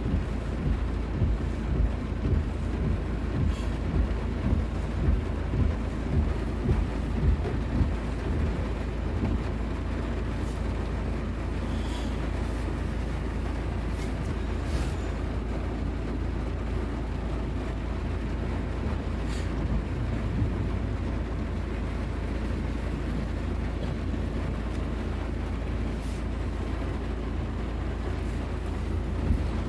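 Wind buffeting the microphone in heavy rain: a low rumble that gusts in the first several seconds and then settles, over a steady wash of rain, with a few sharp clicks scattered through it.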